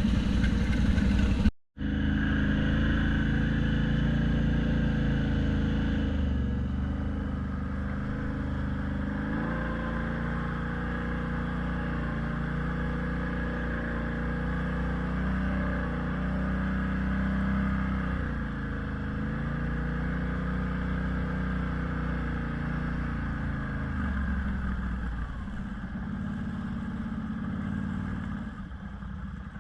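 A vehicle engine running under way, its pitch rising and falling several times with changes in speed. The sound drops out completely for a moment about a second and a half in.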